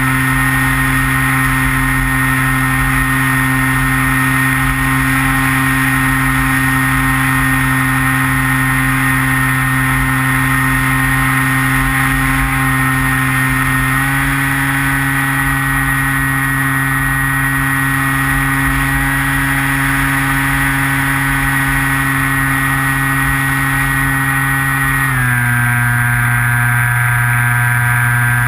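Skywalker RC plane's electric motor and propeller running with a steady whine, picked up by the onboard camera. The pitch rises slightly about halfway through and drops about three-quarters of the way in as the throttle changes. Gusty wind rumbles on the microphone underneath.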